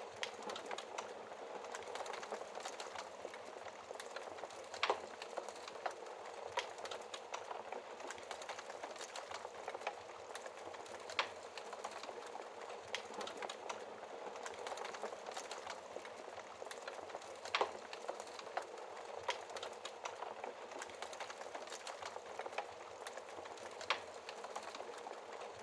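Wood fire burning in a fireplace: a steady dense crackle with a sharper pop every few seconds.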